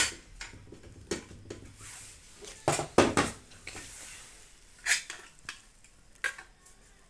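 Metal knocks and clinks from a microwave oven's magnetron and its mounting hardware being handled against the sheet-metal oven cavity. A sharp knock comes first, then scattered light clinks, a cluster of louder knocks about three seconds in, and single knocks near five and six seconds.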